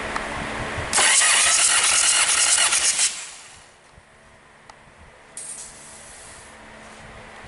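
Hyundai D4BH 2.5-litre diesel engine cranked by its starter during a compression test: a loud, rapidly pulsing rush of noise lasts about two seconds, then stops and fades. After a quiet spell comes a single click and a brief hiss.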